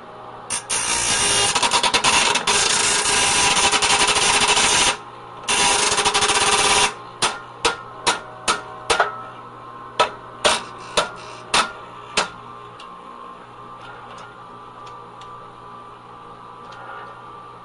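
A power-driven press running in two long bursts, about four seconds and then one and a half, followed by about a dozen short blips, as it builds about 1,000 pounds of pressure on a dishwasher motor. A steady machine hum runs underneath.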